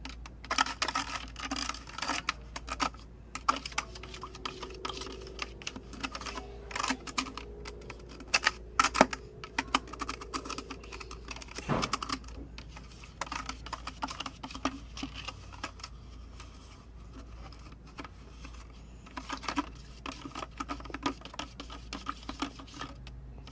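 A spoon clinking and scraping against the side of a container, stirring sugar into water to dissolve it for hummingbird nectar. The clicks come rapidly and irregularly, in spells with short pauses.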